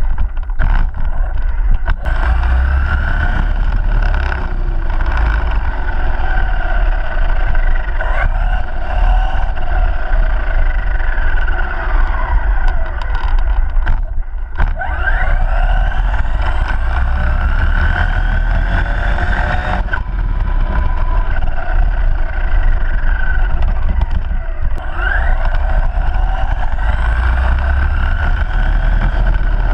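ARRMA Granite BLX RC monster truck's brushless motor whining, its pitch repeatedly rising and falling as the truck speeds up and slows, over a steady low rumble.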